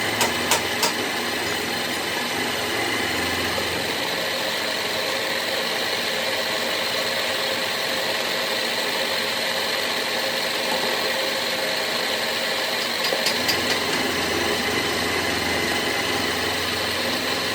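A machine running steadily, with a few sharp clicks near the start and again about thirteen seconds in.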